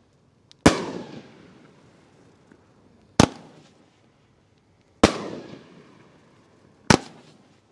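Consumer firework cake firing shots: four sharp bangs about two seconds apart, each trailing off over about a second.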